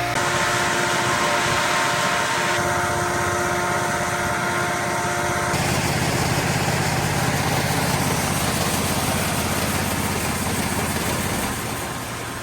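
Loud, steady running of the farm machinery that moves corn from one wagon to another, an engine-driven mechanical noise that jumps abruptly about two and a half and five and a half seconds in.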